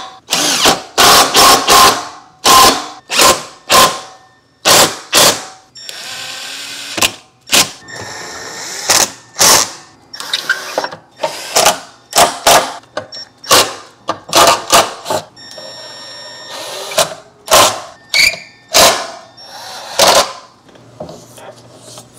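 Cordless power driver or ratchet run in many short bursts, with a couple of longer steady runs, as bolts are driven in while the front brake caliper is refitted.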